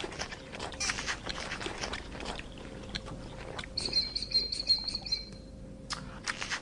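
Irregular crisp crunching, like an animal chewing, with a short high bird trill of rapid repeated notes about four seconds in.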